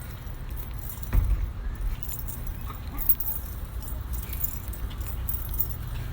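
Light metallic jingling that comes and goes as the person holding the camera walks, over a low rumble of wind and handling on the microphone. There is a single thump about a second in.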